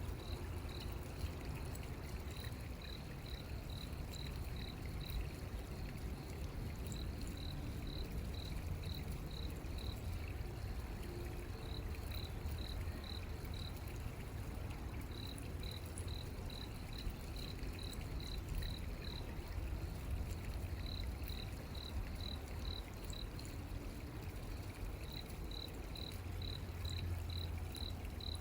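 Running water with a steady low rush, over a small creature's high chirping call, about three chirps a second in runs of four to eight, with short pauses between the runs.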